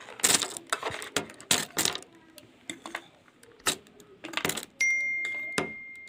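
A rapid clatter of sharp metallic clinks and knocks, like metal objects striking each other. About two-thirds of the way through, one clear ringing tone starts and slowly fades.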